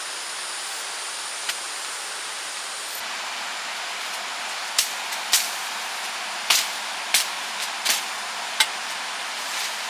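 Steady rushing noise like running water, with a series of sharp strikes starting about halfway in, about eight at irregular intervals, from a tool clearing a drainage ditch.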